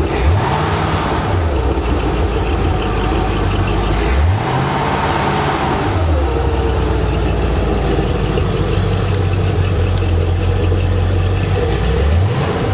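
The inboard engine of a 1984 Correct Craft Ski Nautique runs out of the water on a hose-fed motor flusher. It is revved up and let back down twice, runs steadily, then revs again near the end.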